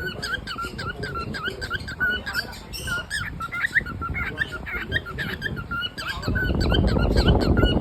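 Cockatiel chirping and warbling in a quick string of short squeaky notes, about three to four a second, the contented chatter of a happy bird. About six seconds in, a louder low rushing noise joins under the chirps.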